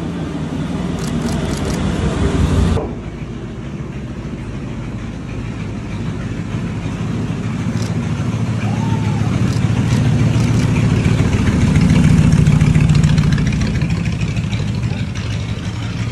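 Old cars' engines running at low speed as two vintage vehicles drive through a wooden covered bridge one after the other. The first, a red hot rod, grows louder and then cuts off suddenly about three seconds in. A yellow vintage pickup then comes closer, is loudest past the middle, and fades as it drives away.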